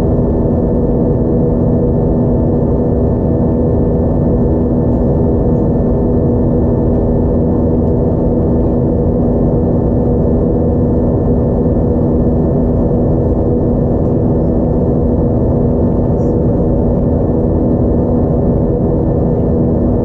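Steady cabin noise inside an Airbus A320-232 airliner: an even, loud rumble from its IAE V2500 jet engines and the airflow, with a constant hum of several steady tones.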